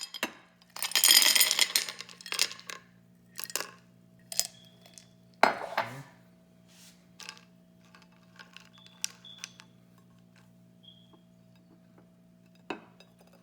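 Ice cubes clattering onto a plate, then a string of single sharp clinks, the loudest about five and a half seconds in, as more are set down, growing sparser toward the end. A faint steady hum runs underneath.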